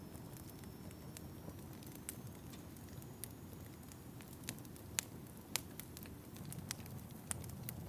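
Wood fire crackling in a fireplace: irregular sharp pops and snaps over a low steady rumble, with the loudest pops about five seconds in.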